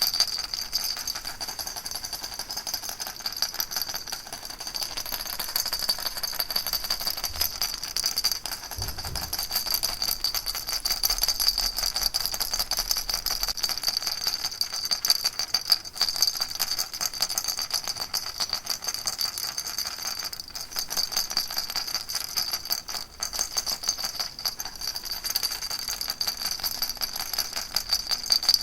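Baby rattle shaken without pause: a dense, steady, fast rattling.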